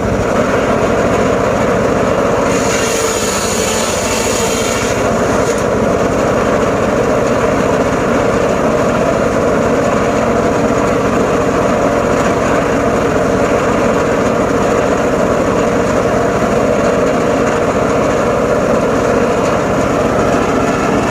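Engine-driven saw running steadily, its small engine holding a constant speed.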